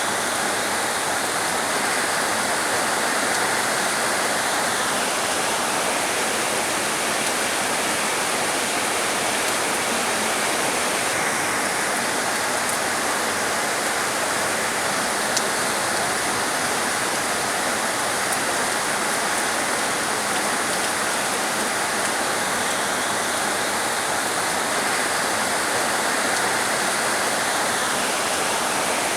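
Heavy rain falling in a steady, dense hiss. A higher hissing layer drops out about five seconds in and comes back around eleven seconds.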